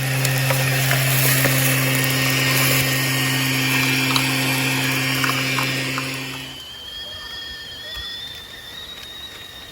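A small motor running steadily with a rushing hiss, cutting off sharply about two-thirds of the way through; a thin, high, steady tone that rises slightly is left after it.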